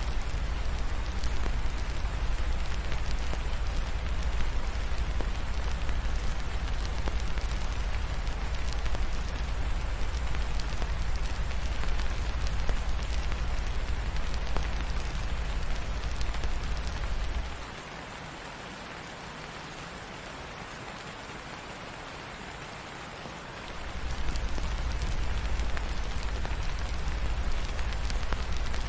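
Steady rain hiss over a deep low rumble. About two-thirds of the way through, the rumble cuts out for about six seconds, leaving only the rain, then comes back.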